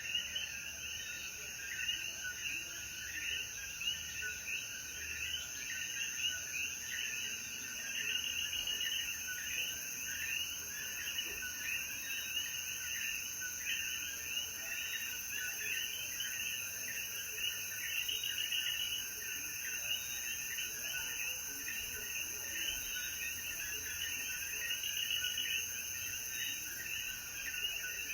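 Chorus of common coquí frogs, many short rising calls repeating and overlapping, over a steady high buzz of insects.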